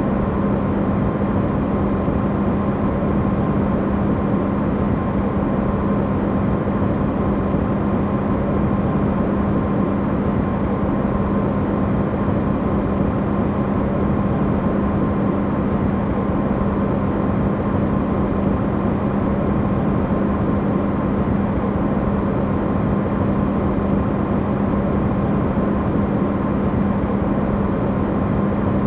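Amplified recording of a running Electrolux side-by-side refrigerator: a steady, unbroken hum with a low, even drone near 200 Hz and a fainter higher whine.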